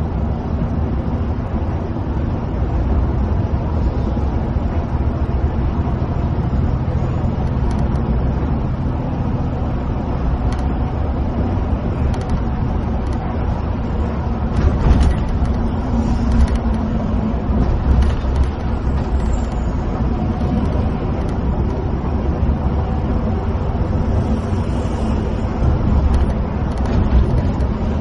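Intercity coach cruising on a highway, heard from inside the cabin: a steady low engine hum under tyre and road roar, with scattered short clicks and knocks.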